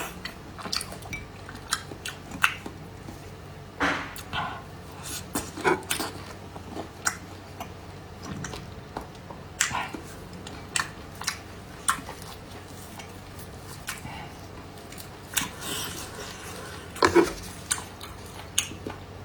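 Close-miked chewing and mouth smacks of someone eating fatty cured pork, mixed with irregular sharp clicks of utensils against a dish.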